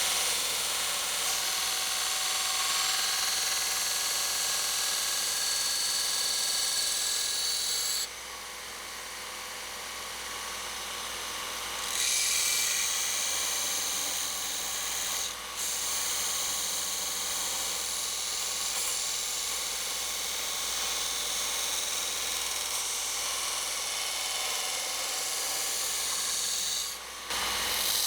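Electric grinder grinding an edge onto a knife forged from a steel horseshoe: a steady, hissing rasp of steel on the abrasive. It quietens for a few seconds about eight seconds in, then comes back louder, with brief drops near the middle and near the end as the blade is lifted off.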